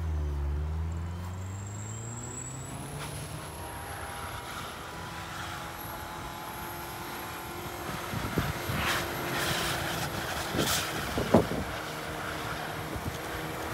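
Subaru Impreza wagon's flat-four engine revving while the car drifts through snow: the engine note dips and then climbs in the first few seconds, then holds a steady drone under wheelspin. A few sharp knocks come between about eight and eleven seconds in.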